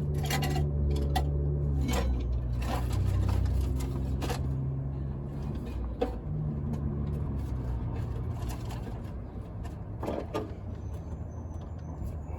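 Low engine rumble of a vehicle, slowly fading, with a few sharp clicks and knocks scattered through it.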